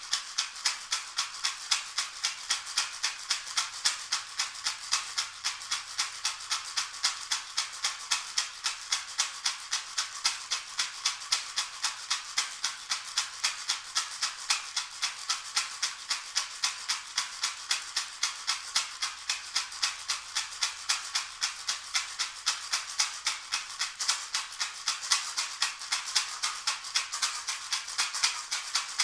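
A shaker rattle shaken in a steady, even rhythm of about three strokes a second, a bright rattling.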